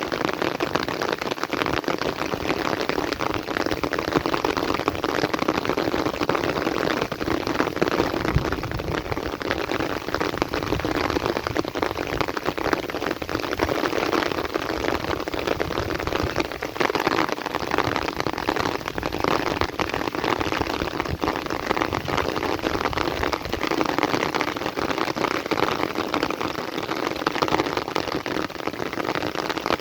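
Heavy rain falling steadily: a dense, continuous patter of drops on surfaces, with no let-up.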